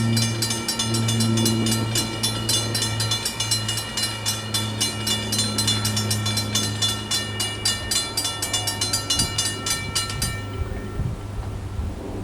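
A diesel train's engine hums steadily while a bell rings in a rapid, even rhythm. The bell stops shortly before the end.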